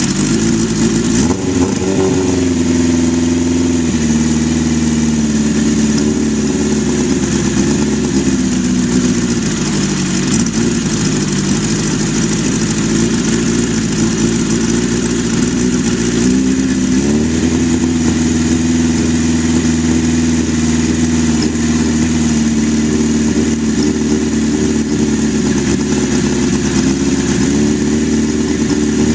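1983 Suzuki GS1100E's air-cooled inline-four running while it warms up from a cold start. Its revs pick up about two seconds in, sag back, then rise again a little past halfway and hold there.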